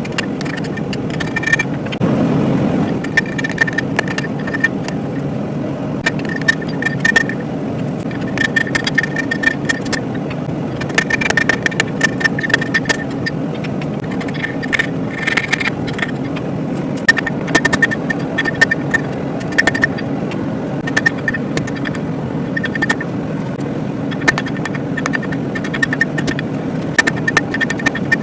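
Hammer blows on thick hot steel, struck in irregular runs, each strike ringing sharply, over a steady low rushing noise.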